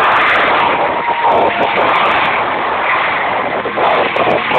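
Monster truck engine running loud at high revs, heard through a phone's small microphone: a harsh, distorted wash of noise with no clear pitch.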